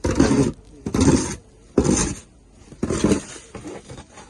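Footsteps crunching through deep fresh snow, one heavy step about every second.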